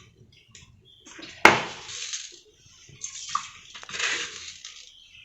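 Metal cooking vessels handled on a stove, with one sharp clank about a second and a half in, followed by splashing and sloshing water.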